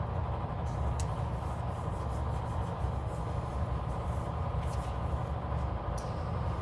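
Steady low background rumble, with a few faint ticks of paper and stickers being handled.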